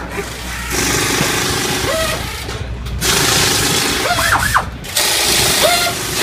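Pneumatic air tools working in bursts during a Top Fuel engine teardown: loud hissing blasts that cut in and out, with short whines that rise and fall as the guns spin up and stop, several times.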